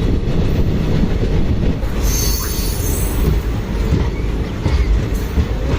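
Passenger train running at speed, heard from aboard a coach: a steady rumble of wheels on the track, with a high wheel squeal about two seconds in lasting just over a second.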